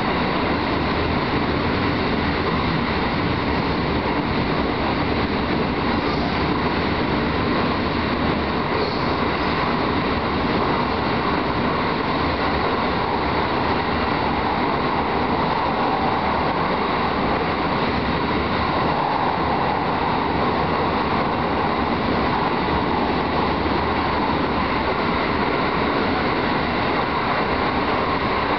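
Aichi Loop Railway electric train running through a tunnel, heard from the driving cab: a steady rumble and rush of wheels on rail.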